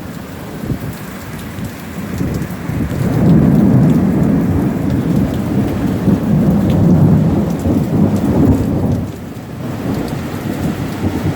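Thunderstorm: steady heavy rain, with a long low rumble that builds about two seconds in, stays loud for several seconds and eases off near the end.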